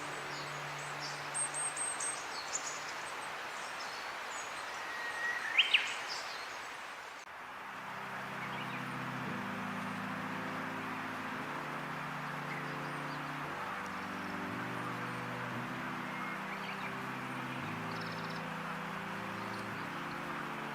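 Small birds chirping, with one louder rising call about five and a half seconds in, over steady outdoor hiss. About seven seconds in, background music with held low notes takes over.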